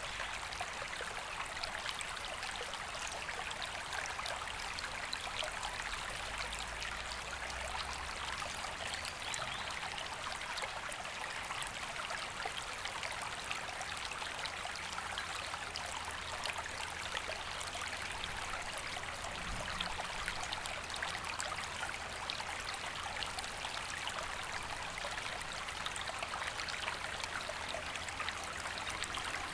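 A river flowing steadily, a continuous even rush of water.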